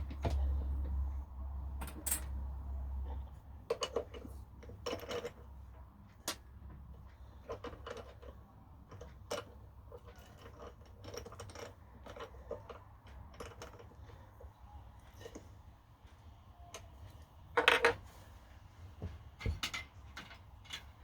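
Small metal objects clinking and knocking as they are handled, in scattered irregular taps with a louder cluster near the end. A low hum runs under the first few seconds and then stops.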